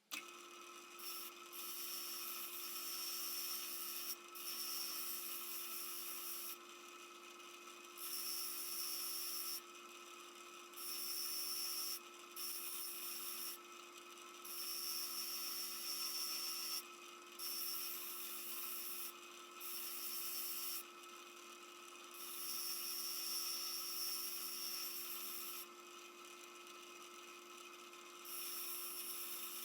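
Abrasive sanding or grinding of a metal part in repeated spells of one to three seconds, each a harsh rubbing hiss, over a steady hum.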